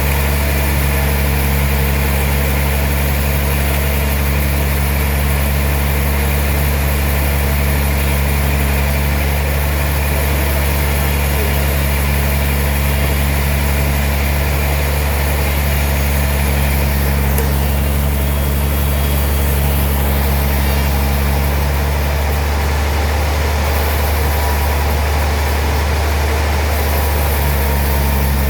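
Heavy sawmill machinery running steadily: a constant low engine drone with an even hiss above it, unchanging throughout.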